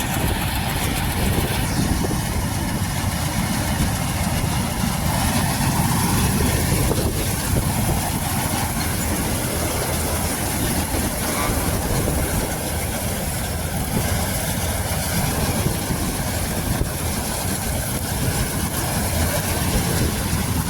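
Combine harvester running steadily as it cuts wheat: an even, unbroken engine and machinery noise.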